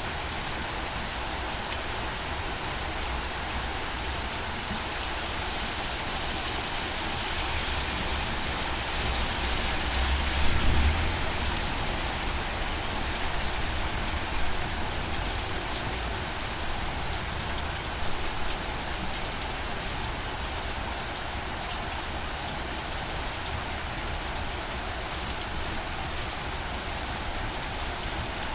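Steady rain falling and pattering on surfaces, an even hiss. About a third of the way through, a brief low rumble rises above it, with a couple of smaller low bumps later.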